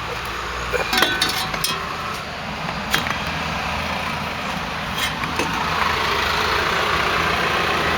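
A few short, sharp metallic clinks of brake parts (rotor, caliper bracket and bolts) being handled and fitted back on a car's front hub, over steady background noise that grows a little louder in the second half.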